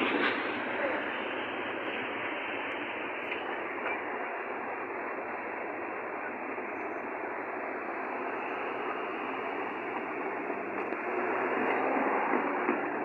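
Steady rumbling noise of a train rolling past, with no horn, swelling slightly about eleven seconds in.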